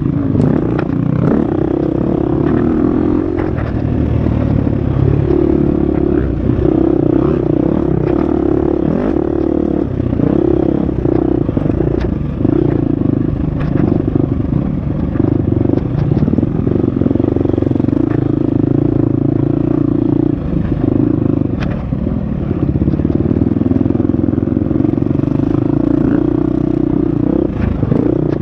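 Husqvarna FX 350 four-stroke single-cylinder dirt bike engine running hard on a trail ride, its note shifting with the throttle and easing off briefly a few times, with occasional sharp knocks and clatter from the bike.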